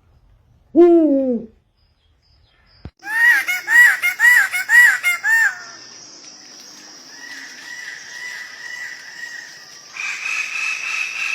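Birds calling in a series of spliced clips: one loud falling call about a second in, then a run of five quick arched calls, then fainter repeated calls.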